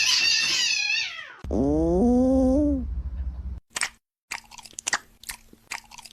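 A cat meowing twice: first a high, wavering call that falls away, then a lower, longer meow that rises and falls. A run of short clicks and crunches follows.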